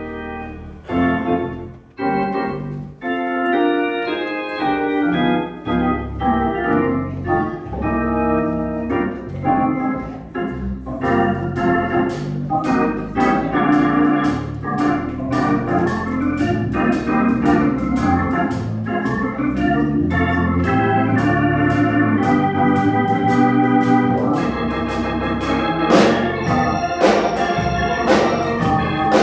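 Organ music playing held, changing chords. About a third of the way in, a steady beat of light percussion ticks joins.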